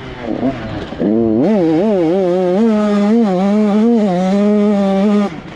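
Motocross bike engine revving: the pitch climbs about a second in and wavers with the throttle, then holds steady and high before cutting off suddenly near the end.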